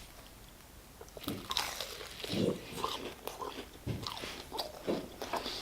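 Close-miked crunchy bite into a fried chicken burger followed by chewing, starting about a second in, with irregular crackly crunches and wet mouth sounds.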